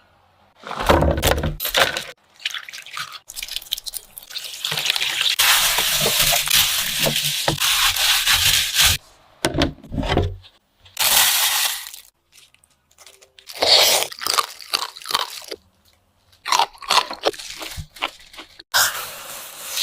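Kitchen dessert-making sounds: a run of short scrapes, taps and knocks, with a longer steady scraping or rushing stretch in the middle.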